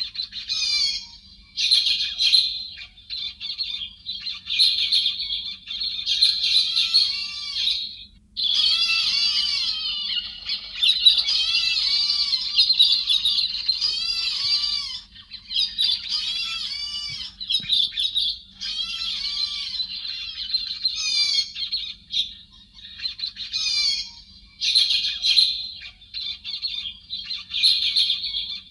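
A flock of thrushes calling and chattering together: a dense stream of overlapping high, arching chirps with brief pauses. A faint steady low hum runs underneath.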